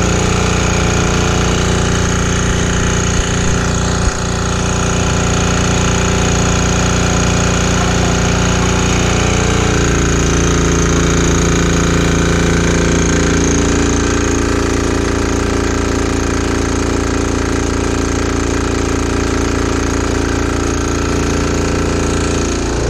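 Small 196cc single-cylinder diesel engine (model 168F) driving a generator, running steadily with a hard diesel clatter. Its pitch drops slightly about ten seconds in, and there are a couple of short knocks near four seconds.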